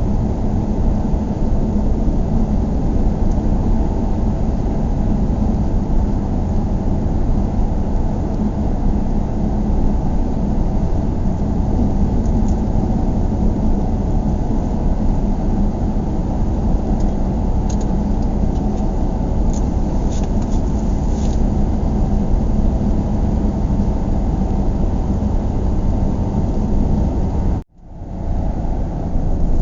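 Steady low road and engine rumble heard from inside a moving car. About 28 seconds in, the sound cuts out suddenly and fades back up within a second.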